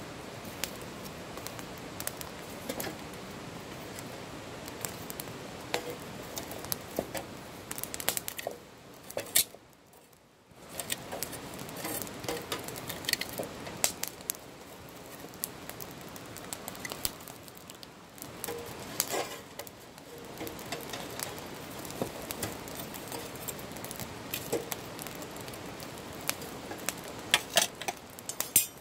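Wood campfire crackling, with sharp pops and snaps scattered over a steady hiss; it falls quieter for about a second around ten seconds in.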